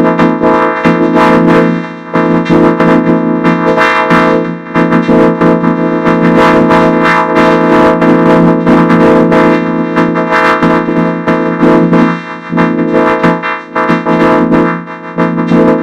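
Music run through a heavy 4ormulator-style audio effect, turning it into many held, buzzing tones stacked on one another. It dips briefly about two seconds in and again a few times near the end.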